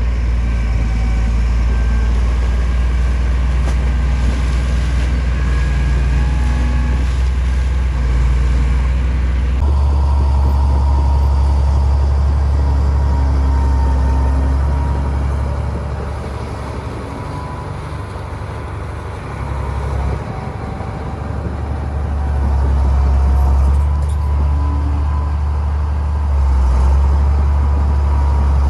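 Heavy diesel engine of earthmoving machinery running steadily. Its low note shifts abruptly about ten seconds in, it drops in loudness for a few seconds past the middle, then rises again.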